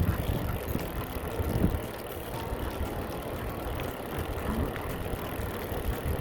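Low, uneven rumbling noise of wind buffeting the microphone outdoors.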